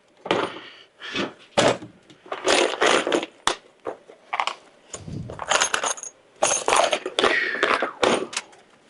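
Irregular clanks, clinks and rattles of metal parts and tools being handled, several with a brief high metallic ring.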